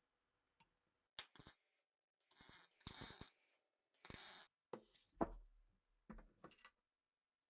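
Metal rifle parts being handled and worked by hand: a series of short sliding, scraping and clicking sounds, in about five separate bursts.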